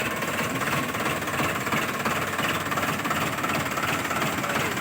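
Tractor engine running steadily with a fast, even pulse.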